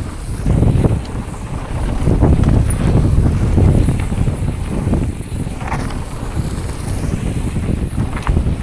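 Wind buffeting the microphone of a camera on a mountain bike riding fast downhill: a loud, continuous low rumble, with a couple of brief rattles near the end.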